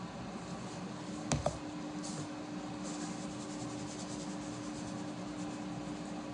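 Faint handling and rustling noises in a kitchen, with a sharp click about a second and a half in, after which a steady low hum sets in and keeps going.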